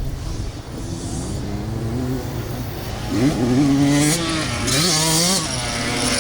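Dirt bike engines revving on a motocross track, their pitch rising and falling with the throttle. About three seconds in, a bike gets louder with several quick rising revs.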